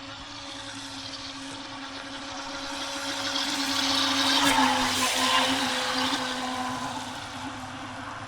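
Radio-controlled boat running on the lake: a steady electric-motor whine with a rush of water and spray that swells as it passes close, loudest about halfway through, then fades away.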